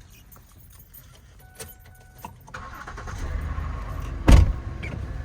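A vehicle engine comes up to a low, steady rumble about halfway through, followed by one loud, sharp thump near the end.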